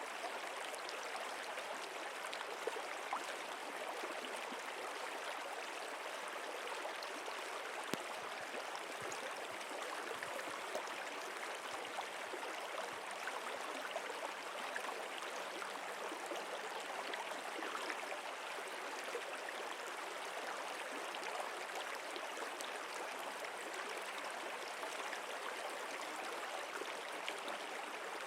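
Stream water flowing and babbling steadily, an even rush with small splashes and trickles.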